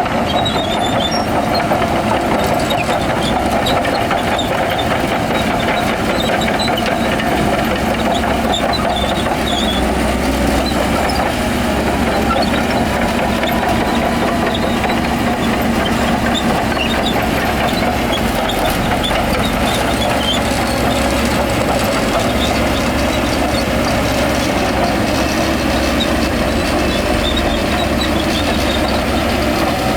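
Diesel engines of heavy earthmoving machinery running steadily, with scattered faint high ticks.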